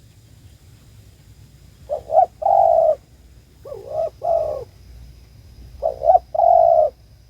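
Spotted dove (tekukur) cooing: three phrases a couple of seconds apart, each two short notes and then a longer held coo. It is the dove's call to others of its kind.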